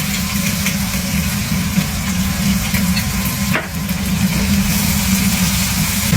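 Beef kidney slices stir-frying in a hot wok, sizzling steadily over a constant low hum, with a single knock from the spatula about three and a half seconds in.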